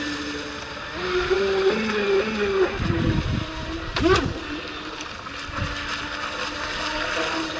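The 4074-size 2000 kV brushless motor and propeller of an RC Surfer One model running at changing throttle, over a steady rushing noise. Its whine steps up and down in pitch, with a brief sharp rise and fall about four seconds in.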